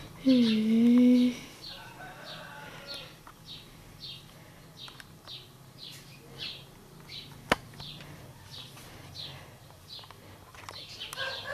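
A bird chirping over and over, short high chirps falling in pitch at about two a second. In the first second a person's voice hums a held, wavering note, and about halfway through there is one sharp knock.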